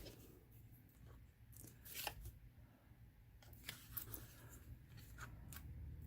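Faint handling of paper and card: a few light clicks and rustles, the clearest about two seconds in and around four seconds, over near silence.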